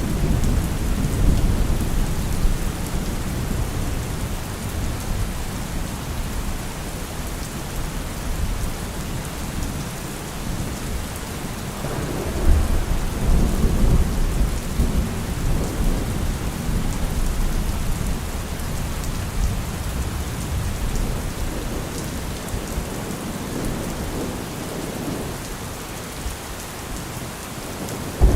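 Heavy rain falling steadily, an even hiss of rainfall with a deep low rumble that swells near the start and again about twelve seconds in.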